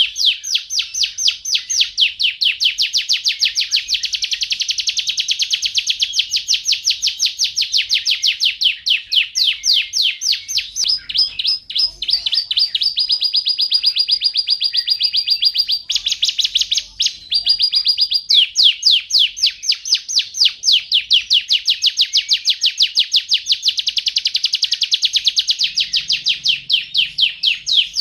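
Domestic canary singing: long, fast rolling trills of rapidly repeated high notes that change speed from phrase to phrase, broken about halfway through by a held steady whistled note.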